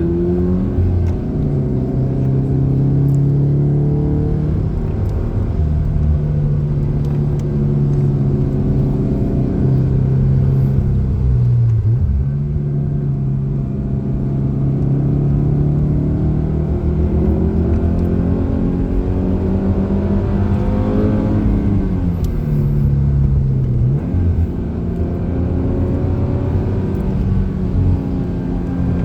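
Car engine heard from inside the cabin, driven hard through tight bends. Its pitch rises and falls throughout, dropping sharply and climbing again twice, about twelve seconds in and again near twenty-three seconds.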